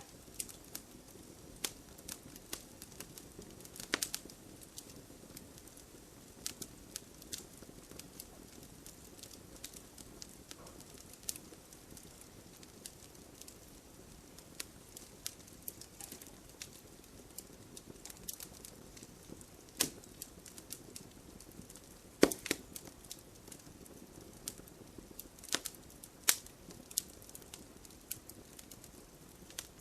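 Wood fire burning in a fireplace: logs crackling with scattered sharp pops over a low steady rush of flame, a few pops much louder than the rest.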